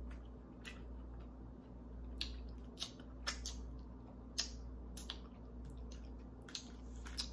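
Close-miked chewing of a mouthful of corn on the cob: scattered wet mouth clicks and smacks at irregular intervals, over a faint steady low hum.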